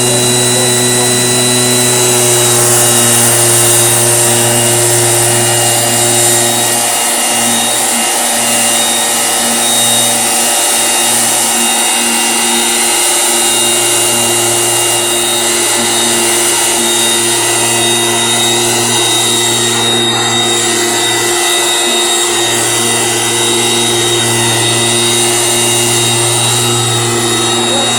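Small petrol engine of a motorized orchard sprayer running steadily at constant speed, its low hum dipping briefly a few times.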